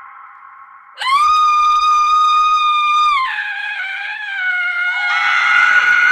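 A woman's shrill scream breaks in suddenly about a second in and is held at one high pitch for about two seconds. It then drops lower and wavers downward. A second scream comes in near the end.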